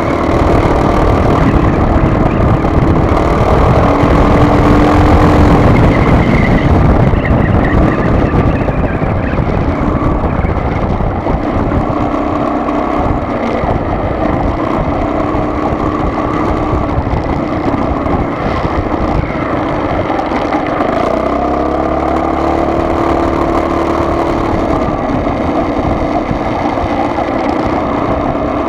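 A car driving along a road: steady engine and road noise, the engine note drifting up and down in pitch as speed changes.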